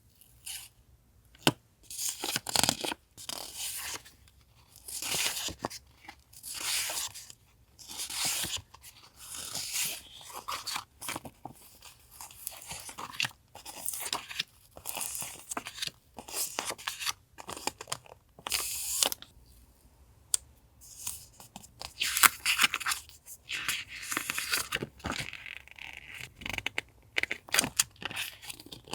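Paper goods and their packaging being handled: repeated short bursts of rustling and crinkling, with a few sharper crackles near the end.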